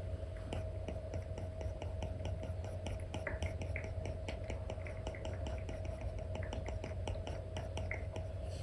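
Apple Pencil 2 nib tapping and scratching across an iPad's paper-like screen film as strokes are drawn: rapid, irregular small clicks with short scratchy strokes, over a steady low hum.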